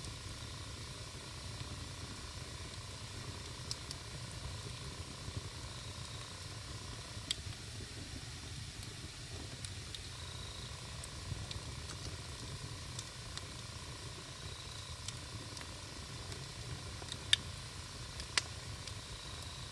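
Wood campfire burning with a steady low hiss and scattered sharp crackles and pops, two louder pops near the end.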